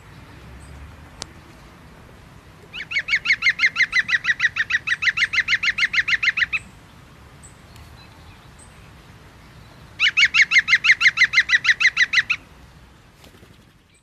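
A bird calling in two long runs of quick, evenly repeated notes, about seven a second. The first run lasts nearly four seconds and the second about two and a half.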